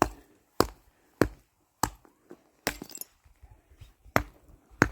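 Footsteps on hard ground close to the microphone: sharp knocks at walking pace, about one every half second or so, pausing briefly in the middle.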